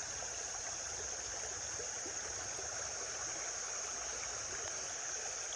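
River water running steadily, an even rushing hiss with a steady high-pitched band above it.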